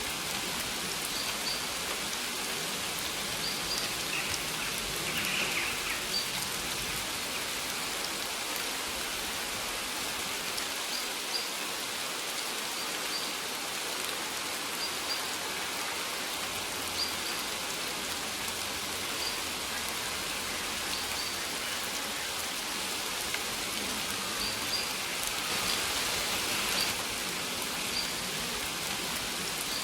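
Steady rain falling, with a bird's short high chirps repeating every second or two over it.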